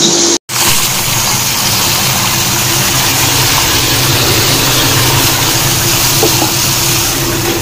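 Bitter gourd slices frying in oil in a wok: a steady sizzle, broken only by a brief dropout just under half a second in.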